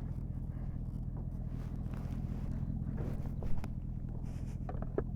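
A vehicle engine running steadily at idle in a low drone, with a sharp knock about three and a half seconds in and a smaller clunk near the end as a motorcycle is moved.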